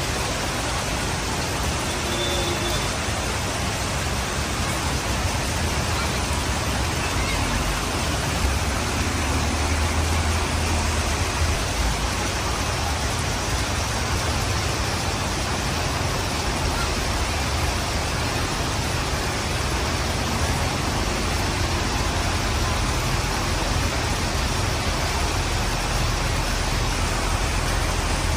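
Steady hiss of heavy rain, with a low rumble underneath that swells a little around the middle.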